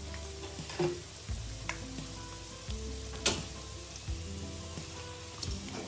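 Sausage pieces sizzling in hot oil in a wok, with a few clicks and scrapes of the spatula and a wire strainer against the pan; the sharpest knock comes a little past three seconds in.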